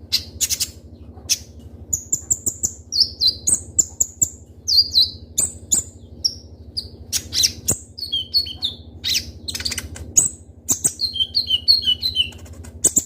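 A kolibri ninja (konin) sunbird singing in quick series of short, high chirps and down-slurred whistled notes, broken by sharp clicks.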